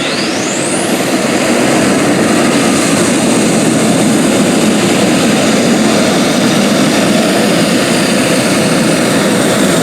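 Super modified pulling tractor running flat out on a pull: loud, steady, dense engine noise, with a high whine that climbs steeply right at the start.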